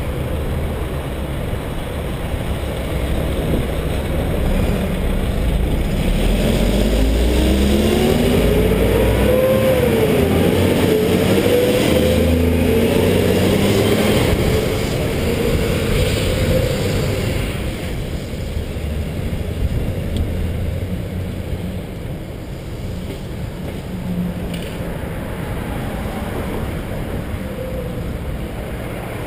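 Wind buffeting the microphone during a bike ride, with a motor vehicle's engine going by in the middle, its pitch rising and falling as it passes.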